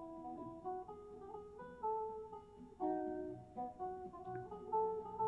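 Background music: acoustic guitar picking a slow melody, one plucked note after another.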